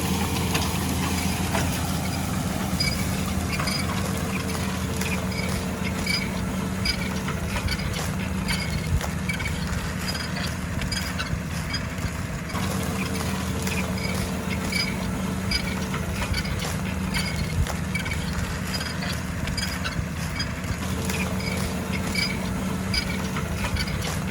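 Fendt tractor's diesel engine running steadily while ploughing, with a higher whine that comes and goes three times and a light repeated ticking.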